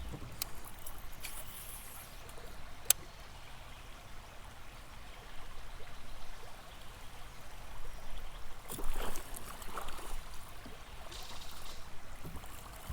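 River water trickling and flowing around a kayak. There is a sharp click about three seconds in, and a burst of splashing around nine seconds in that the angler takes for a pike hitting a topwater lure.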